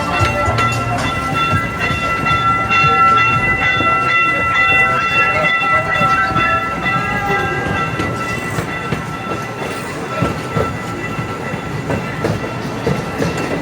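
Gas-powered replica steam train rolling along its track, wheels clacking, with a steady high-pitched ringing tone over roughly the first eight seconds that then fades.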